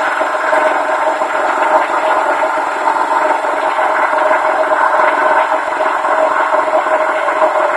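Honda D16Y7 1.6-litre four-cylinder engine of a 2000 Civic running steadily, a steady tone held over a dense, busy mechanical noise. This is the weird noise the owner has heard for a couple of months and cannot explain, with the oil level known to be good.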